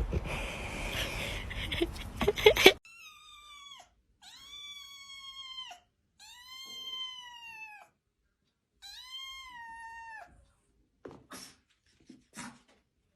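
A cat meowing four times in long, drawn-out meows, each holding its pitch and then dropping at the end. The meows follow a loud stretch of noise that cuts off suddenly, and two short sharp sounds come near the end.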